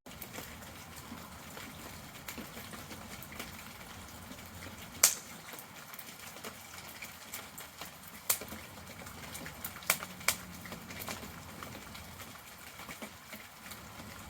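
Wood fire burning in a campfire stand: a steady soft hiss with scattered sharp pops and crackles, the loudest about five seconds in and a cluster near ten seconds.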